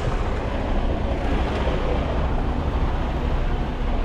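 Semi truck's diesel engine idling with a steady, even rumble.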